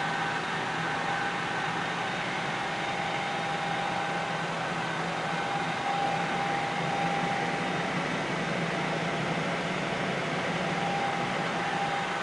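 Helicopter running in flight: a steady engine and rotor drone with a few constant held tones over it.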